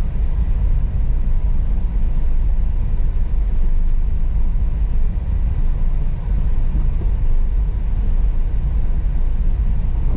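Car driving along a rough unpaved road: a steady low rumble of engine and tyres.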